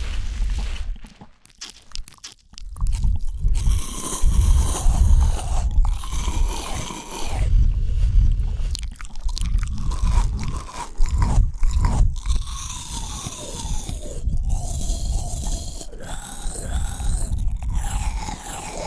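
Close-miked biting and chewing of fresh fruit: crisp crunches and wet chewing right at the microphone, with a short lull about two seconds in.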